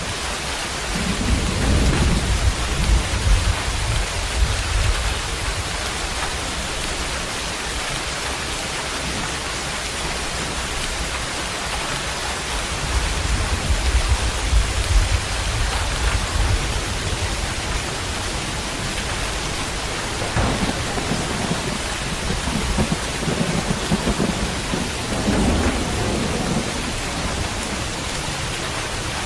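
Steady heavy rain with thunder rumbling low three times, swelling and fading.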